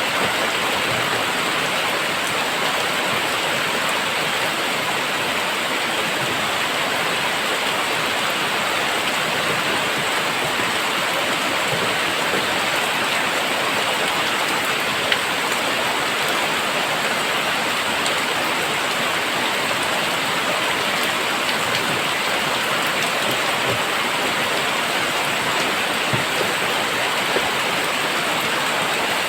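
Very heavy rain pouring down in a steady, dense hiss, with a few single drop clicks, one a little louder about halfway through.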